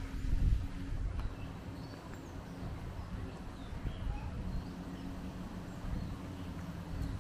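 Scattered short bird chirps over a low, steady outdoor hum, with a brief louder low rumble about half a second in.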